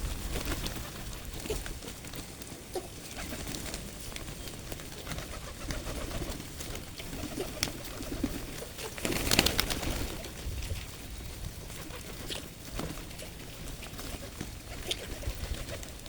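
Pigeons cooing, with scattered light taps and one louder rush of noise about nine seconds in.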